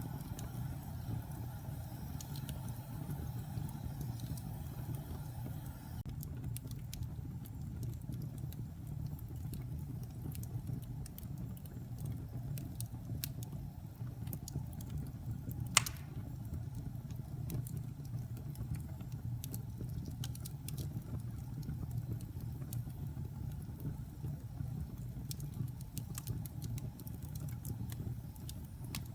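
Wood fire burning in a fireplace: a steady low rumble of flames with scattered small crackles, and one sharp, loud pop about halfway through.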